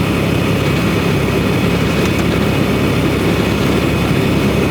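Semi truck cab interior while driving at highway speed: a steady low engine and road drone.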